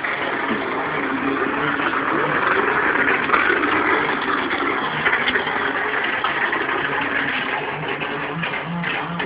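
Radio-controlled model boat's motor running steadily.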